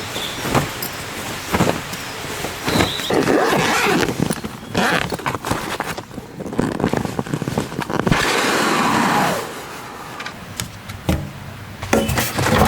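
Rustling and swishing of handled material with scattered clicks and knocks, irregular throughout.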